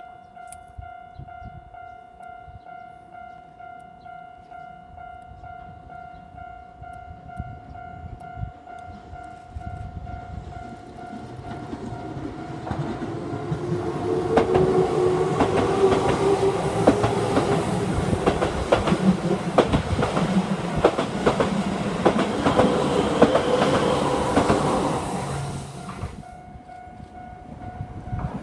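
Level-crossing warning bell ringing in a steady repeating pattern as a Keihan 6000-series electric train approaches and passes close by. Its wheels clack over the rail joints with a running hum that drowns the bell, and the train fades out about two seconds before the end, leaving the bell ringing.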